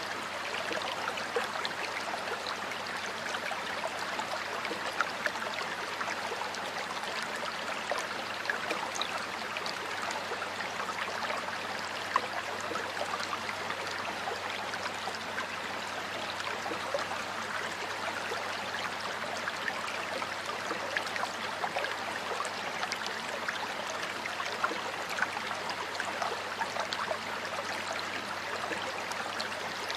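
Stream of water flowing steadily over rocks, a continuous rushing with small splashes and gurgles.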